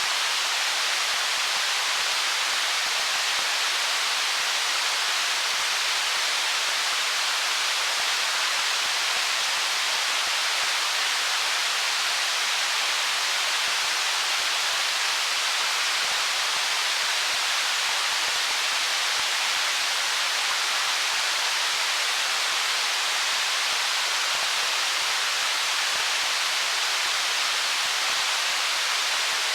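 Stream water flowing over stones, a steady even hiss with little low rumble.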